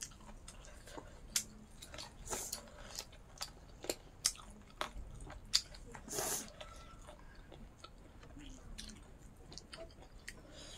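Close-up chewing and mouth smacks from eating pork and rice by hand, with many short, sharp clicks and a brief louder rustle a little past halfway.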